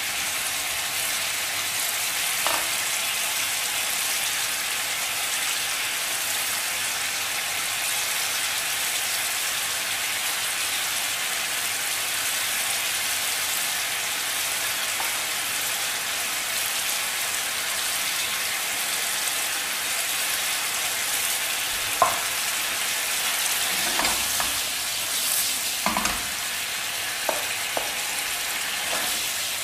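Pork meatballs sizzling steadily in hot oil and melted coconut sugar in a frying pan. In the last several seconds a few sharp clicks ring out as a plastic spatula knocks against the pan while they are moved around.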